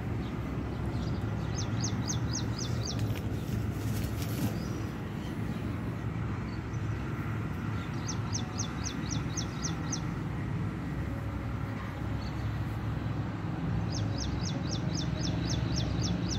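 A bird calls three times, each a quick run of about seven to ten high chirps, roughly five a second, each chirp falling in pitch. Underneath is a steady low rumble.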